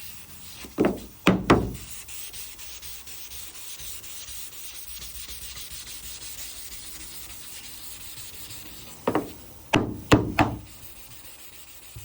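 Hand block sanding of high-build primer on a truck body panel, 600-grit paper on a soft block making a steady dry rubbing. A few sharp knocks come about a second in and again a cluster of four near the end.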